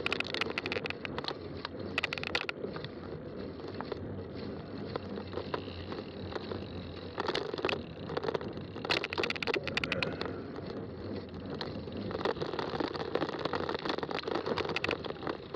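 Fat-tire mountain bike being ridden over a rough trail: tyres rolling with a steady noise, and the bike rattling and clicking in bursts over bumps.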